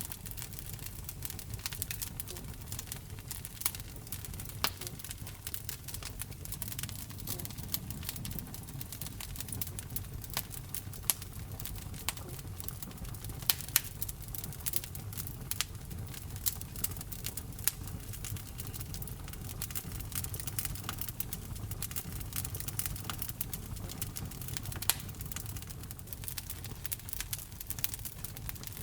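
Wood fire burning in a fireplace: a steady low rumble of flames with constant crackling and occasional louder pops.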